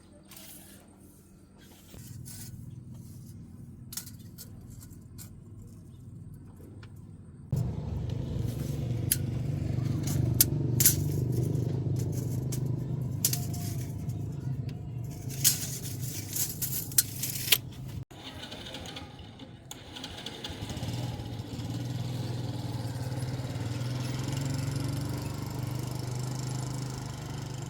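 A vehicle engine running steadily, with rattles and sharp clicks in the middle. The sound changes abruptly at about 2, 7.5 and 18 seconds.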